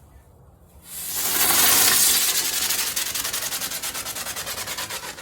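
A lit firework hissing loudly, starting about a second in, then sputtering in a fast, even pulse as it burns down and fades near the end.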